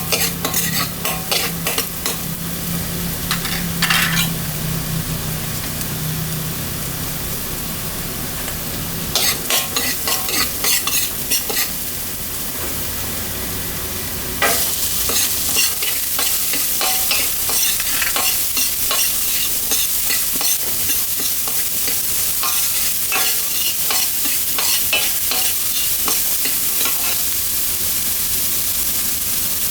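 Fried rice being stir-fried in a hot pan: a steady sizzle, with a metal spatula scraping and clacking against the pan in quick runs. The sizzle gets suddenly louder about halfway through. A low hum runs under roughly the first third.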